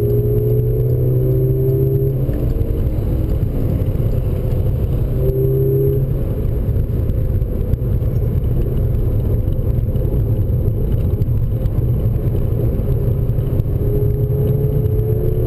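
Volkswagen Golf GTI Mk6's turbocharged four-cylinder engine under acceleration on a race track, heard from inside the cabin over steady road and tyre noise. The engine note rises, breaks off about two seconds in and again about six seconds in, then climbs again near the end.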